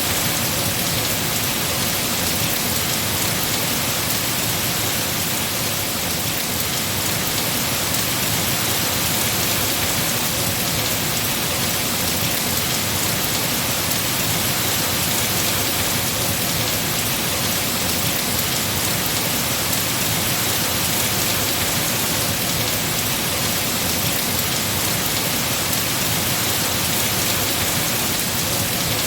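Heavy rain falling on tree foliage, a steady dense hiss without pauses or distinct drops standing out.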